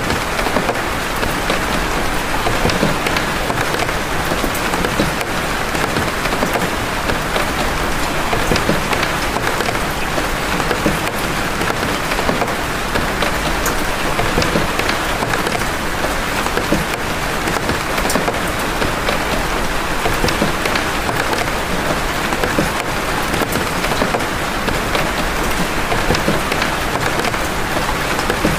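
Steady rain of big raindrops: an even, dense hiss with sharp ticks of single drops splashing scattered all through it.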